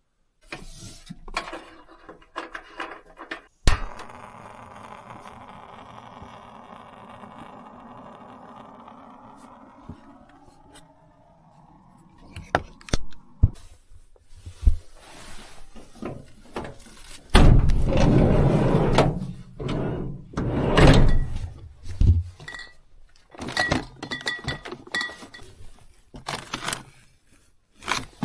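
Assorted knocks, clinks and rustling of objects being handled at close range. A steady hiss runs for several seconds near the start, louder rustling or scraping bursts come around the middle, and short ringing clinks follow.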